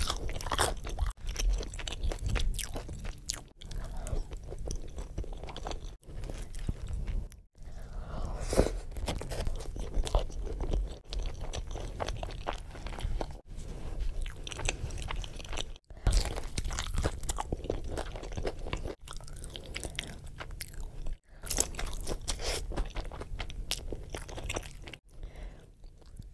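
Close-miked crunching and chewing of crispy breaded fried chicken, with brief abrupt breaks every few seconds.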